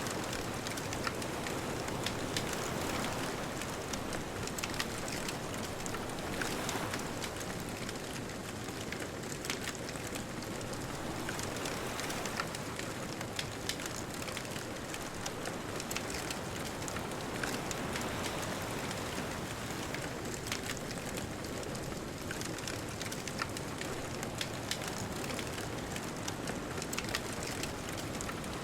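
Wood bonfire crackling with frequent small sharp pops, over a steady rushing hiss of distant ocean surf.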